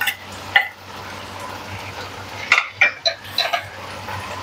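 Chicken pieces frying in hot oil in a wok with a steady sizzle, broken by several clinks and scrapes of a metal spoon on a plate and a spatula against the pan, bunched together about two and a half to three and a half seconds in.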